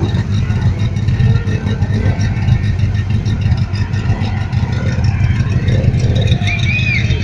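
Modified Volkswagen Brasilia drag car's engine idling steadily, its exposed rear engine running with an even, lumpy low note and no hard revs.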